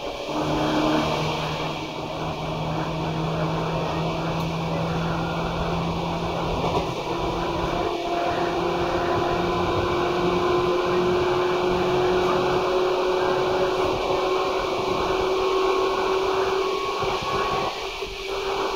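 Seibu 2000-series electric train running, with its motor whine rising slowly in pitch as it gathers speed over the rumble of the wheels.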